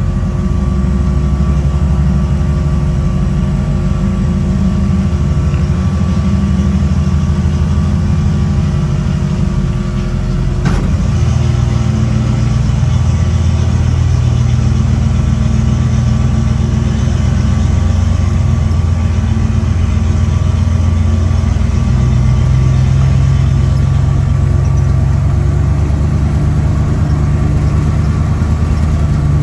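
Turbocharged 1962 Chevy engine running steadily at low revs. A click comes about eleven seconds in, after which the engine note shifts to a slightly different steady drone.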